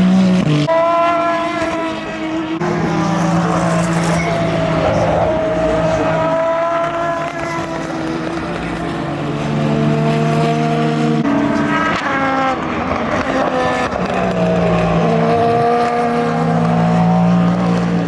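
Endurance race cars running past at speed, several engine notes overlapping, rising and falling in pitch as the cars pass and shift gears, with sharp pitch drops at the upshifts.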